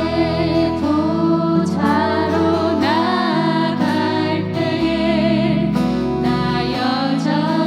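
Korean worship song sung by a group of women's voices over instrumental accompaniment.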